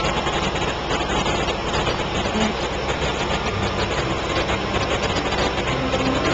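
Riverboat engine running steadily at a low, even drone under way.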